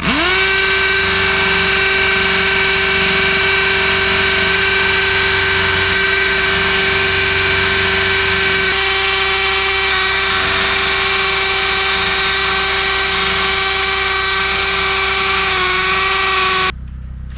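Power drill running at a steady speed, drilling into the concrete footers to mount post bases. It starts suddenly, dips slightly in pitch near the end, then cuts off abruptly.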